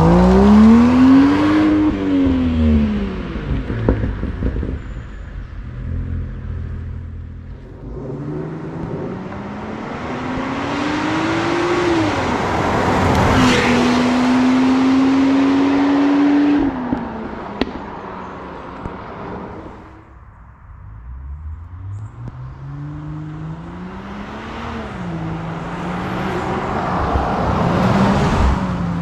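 Land Rover Defender P400's straight-six petrol engine through an aftermarket valved exhaust with the valves open, accelerating and easing off several times; the engine note climbs and falls repeatedly, holds steady for a few seconds in the middle and cuts off abruptly, then builds again towards the end.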